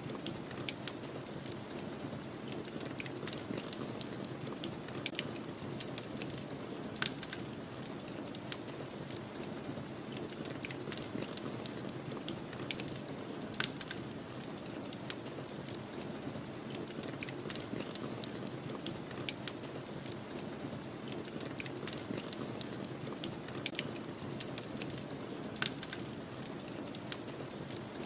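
A crackling fire, with many irregular sharp pops and snaps over a steady low rush of snowstorm wind.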